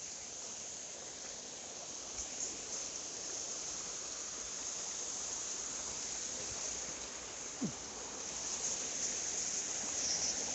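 Insects buzzing in a steady high-pitched chorus over the rush of a mountain stream, with a brief falling squeak about seven and a half seconds in.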